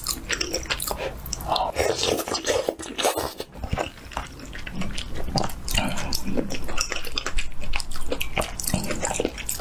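Close-miked eating: wet chewing and smacking of soft crab meat and egg soup, with many small irregular mouth clicks and a short lull about halfway through.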